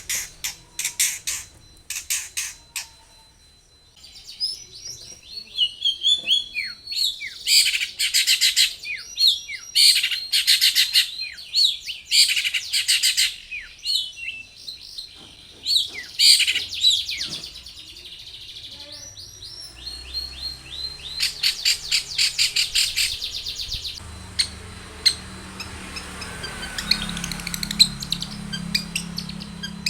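Long-tailed shrike (cendet) singing: runs of rapid repeated notes alternate with short downslurred whistles, broken by a brief pause about three seconds in. A low steady hum comes in for the last several seconds.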